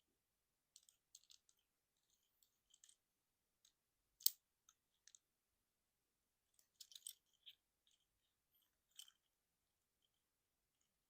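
Faint, irregular clicks and snaps of plastic toy parts as a Transformers Trailcutter action figure is transformed by hand, with one sharp snap about four seconds in and a quick cluster of clicks a little before the seventh second.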